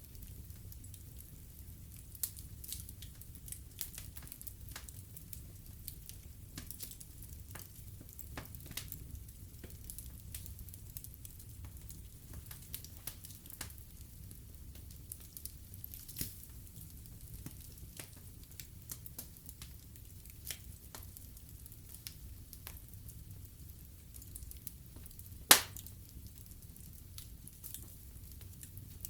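Wood fire burning in a fireplace: a low steady rumble of flame under scattered crackles and pops, with one loud sharp pop near the end.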